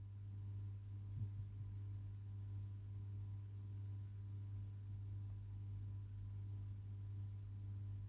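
A steady low hum with faint overtones, and a faint tick about five seconds in.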